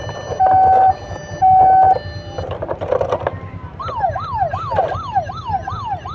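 Toy ambulance's electronic siren: steady beeps about once a second, then, after a short handling clatter, a fast rising-and-falling wail repeating about three times a second.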